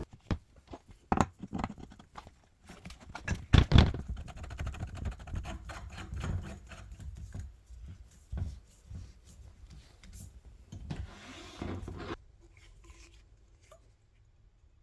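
Trampoline legs being screwed onto the frame by hand, with irregular knocks, scraping and rubbing of the parts being handled. It goes much quieter about twelve seconds in.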